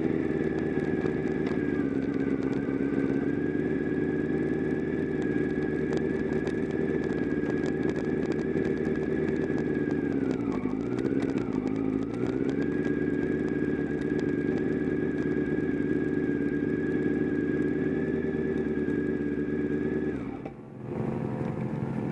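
Motorcycle engine running on board at steady high revs under throttle. About halfway through the pitch dips and climbs back. Near the end the note suddenly drops away as the throttle closes, then picks up again at lower revs.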